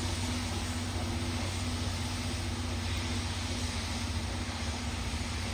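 Slow-moving train of an EF65 electric locomotive, the D51 steam locomotive and 12-series coaches: a steady low hum with a faint pitched drone, under a constant hiss of steam.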